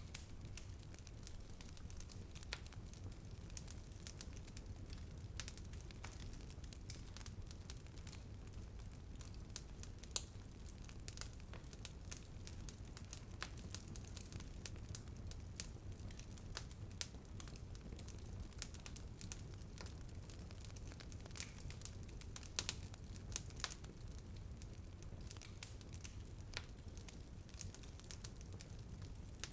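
Wood fire crackling in a fireplace: scattered sharp pops and snaps, a few louder ones, over a steady low rumble of burning.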